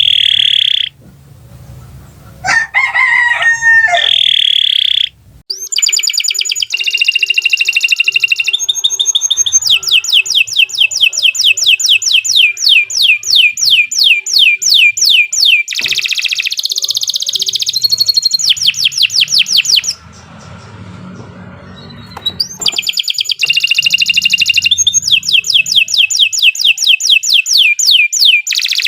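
Domestic canary singing a long continuous song: fast rolling trills of rapidly repeated high notes, broken by short pauses about 5 and 20 seconds in.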